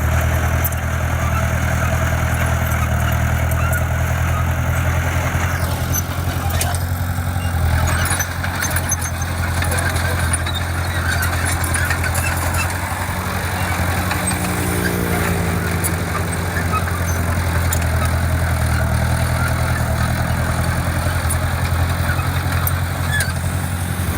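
Diesel engine of heavy construction equipment running steadily with a low hum, rising briefly in pitch about halfway through.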